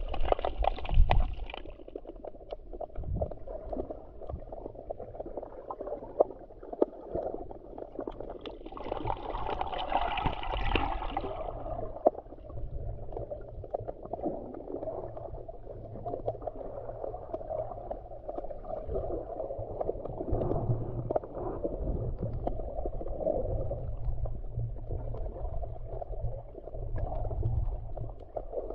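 Sea water gurgling and sloshing, muffled, with a low rumble and small clicks throughout; the sound turns brighter for a few seconds between about 8 and 12 s in.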